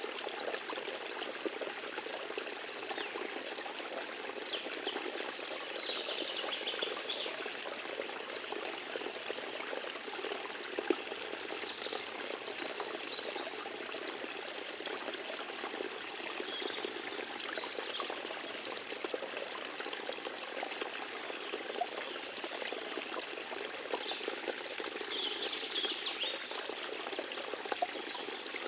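Forest stream trickling steadily, with a few faint high chirps now and then.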